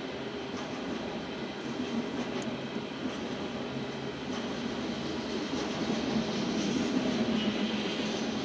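Freight train of loaded aggregate hopper cars rolling past: a steady rumble and rattle of wheels and cars on the rails, growing somewhat louder in the second half, with brief faint high squeals now and then.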